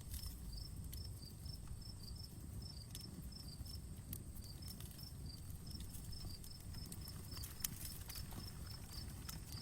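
Campfire crackling, with scattered sharp pops over a low rumble; one pop about three-quarters of the way through is the loudest. An insect chirps in quick, evenly repeated short high notes behind it.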